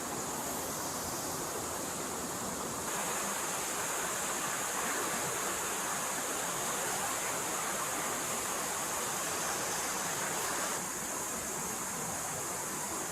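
A forest stream flowing steadily, a continuous rush of water that grows a little fuller about three seconds in and eases slightly near the end.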